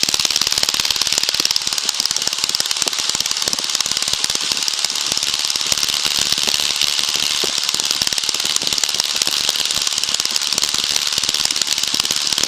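A single-engine Cessna's piston engine running steadily at run-up power, heard from inside the cabin. It is being held there to clear a fouled spark plug that made the magneto check run rough.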